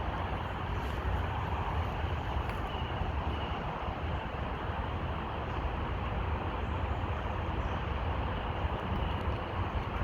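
Steady hum of road traffic with a constant low rumble.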